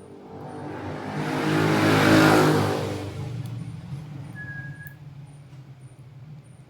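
A motor vehicle passing by: its engine and road noise swell to a peak about two seconds in, then fade away.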